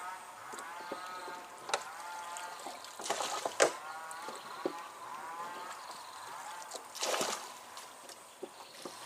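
River water splashing in short bursts, the loudest about three and a half seconds in and another around seven seconds, over a constant chorus of repeated pitched animal calls.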